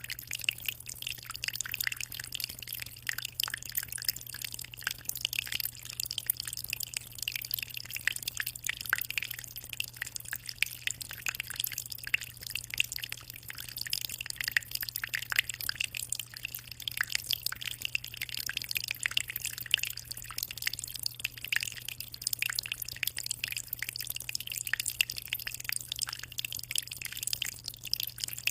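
Aquarium water trickling and splashing at the surface in a dense, even patter of small drops, over a steady low hum.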